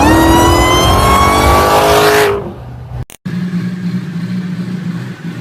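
Car engine revving with a loud forced-induction whine that climbs steadily in pitch, then cuts off about two seconds in. After a brief dropout, an engine idles with a steady low hum.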